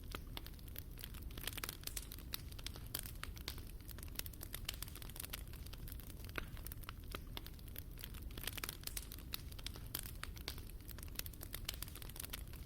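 Wood fire burning in a fireplace: a steady low rumble of the flames with dense, irregular crackles and pops of burning logs.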